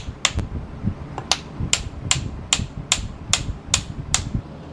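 Small hammer tapping in a steady rhythm on a kitchen knife being finished: about ten sharp taps, roughly two and a half a second.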